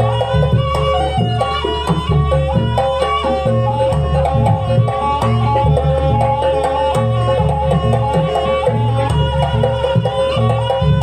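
Traditional Banyuwangi jaranan ensemble music played live: drums keep a steady beat under a held tone and a shifting melody line.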